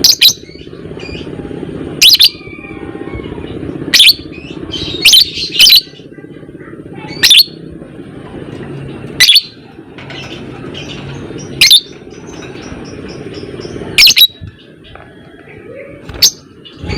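Lovebird giving short, shrill chirps about every two seconds, sometimes two in quick succession, over a steady low background hum.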